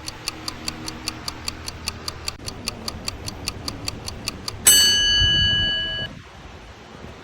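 Quiz-style timer sound effect: a clock ticking quickly, about five ticks a second, then a bright bell ding a little over four and a half seconds in that rings for over a second as time runs out.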